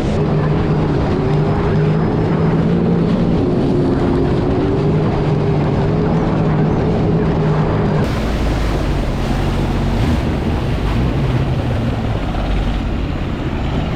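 Sea-Doo jet ski engine running steadily at speed, a constant hum mixed with wind buffeting the microphone and rushing water. About eight seconds in the sound changes abruptly to a heavier, lower rumble.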